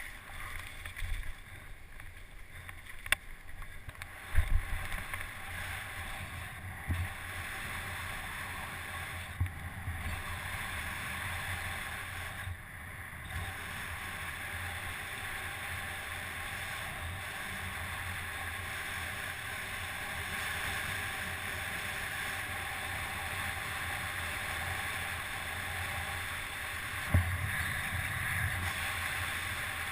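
Steady wind rushing over the microphone, with occasional low thumps and knocks, the loudest about four seconds in and again near the end.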